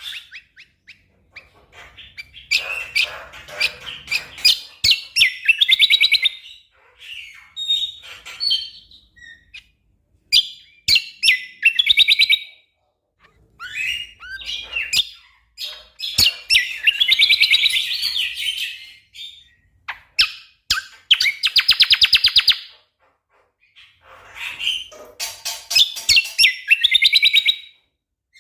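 Greater green leafbird (cucak kombo) singing in loud bursts of varied whistles and chattering notes, with rapid runs of fast repeated notes, the phrases separated by short pauses of a second or so.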